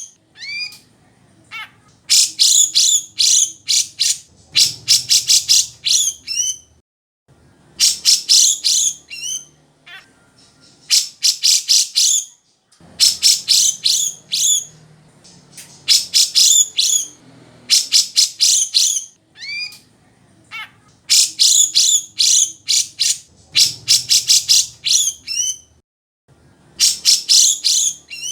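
Grey-cheeked bulbul (cucak jenggot) singing in loud repeated phrases. Each phrase is a fast rattle of sharp, high notes ending in a few sliding whistles, with short pauses between phrases.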